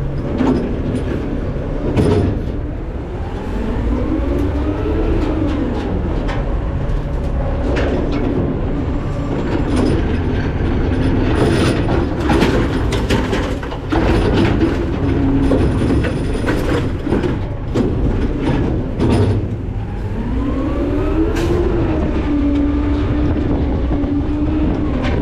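McNeilus ZR rear-loader garbage truck working its hopper. The diesel revs up twice to drive the hydraulic packer, with repeated metal clanks and bangs as trash drops in and the packer blade sweeps and compacts it.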